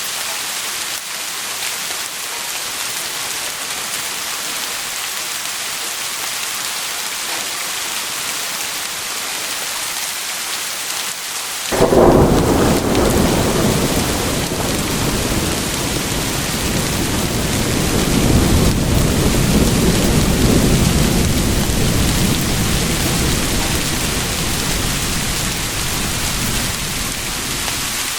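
Steady heavy rain hiss. About twelve seconds in, a sudden crack of thunder breaks in and goes on as a long deep rumble, swelling again a few seconds later and slowly easing under the rain.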